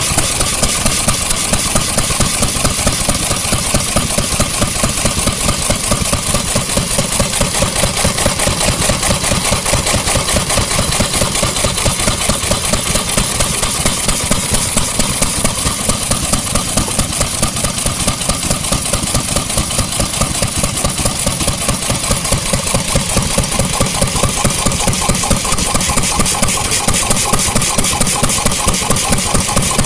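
Vintage engine running steadily at an even, fast beat.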